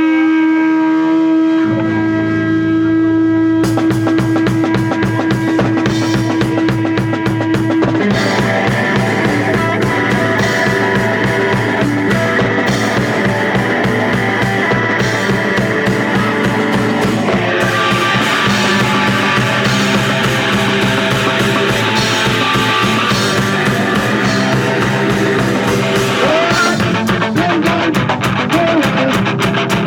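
Punk rock band playing live: a held note, low notes joining about two seconds in, the drum kit coming in about two seconds later, and the full band with guitars from about eight seconds on.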